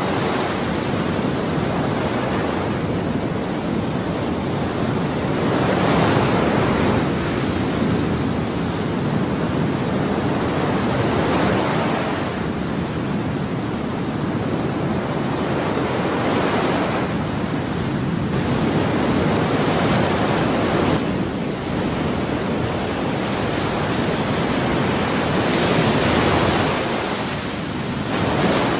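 Ocean waves breaking and washing up a shore in a steady rush of surf, with a wave swelling and receding every five or six seconds.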